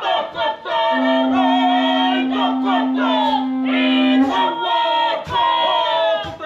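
A group of Māori performers singing and chanting together, with one steady note held for about three seconds in the middle.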